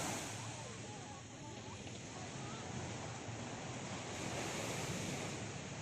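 Sea surf washing onto a sandy beach, with wind buffeting the microphone; the rush of the waves swells again about four seconds in.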